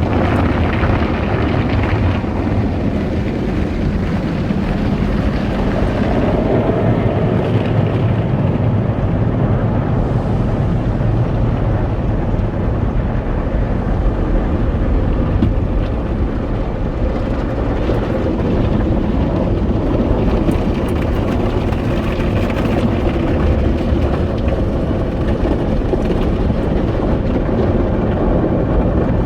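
Automatic car wash running over a car, heard from inside the car: a loud, steady rush of the wash machinery and water with a low rumble underneath.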